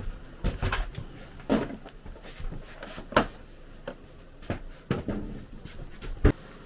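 Irregular knocks and clunks of kitchen cabinet parts being shifted and fitted into place, about seven sharp hits with the loudest a little past three seconds in and just after six seconds.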